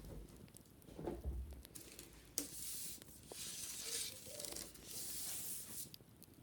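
A wicker basket being scrubbed in three hissing strokes of about a second each, after a low knock of handling and a sharp click.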